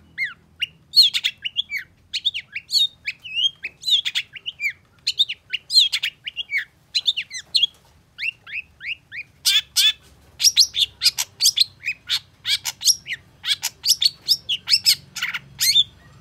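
Long-tailed shrike (cendet) singing a rapid, busy song of short, sharp whistled notes that slur up and down. Harsher, scratchy chatter breaks in at about ten seconds and again near the end.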